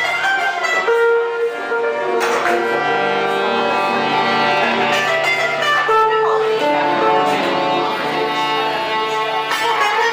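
Live band music led by plucked guitar, playing steadily.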